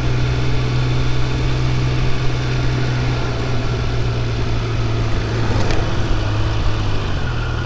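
Triumph Speed Triple 1200 RR's inline three-cylinder engine running steadily at low revs while riding, its note dropping slightly near the end.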